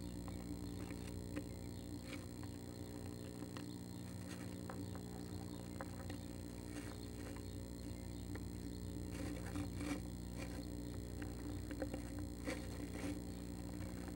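Female northern flicker shifting about in the wood shavings of a nest box, with scattered light scratches and taps of claws on the shavings and wooden walls over a steady hum.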